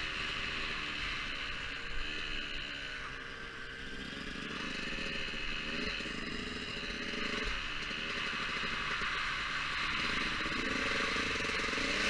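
Motocross bike engine running while being ridden, its pitch rising and falling again and again with the throttle, over a steady hiss.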